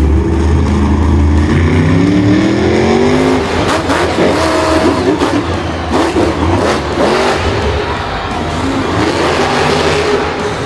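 Vehicle engine revving, its pitch climbing steadily for about two seconds, then running on roughly with changing pitch.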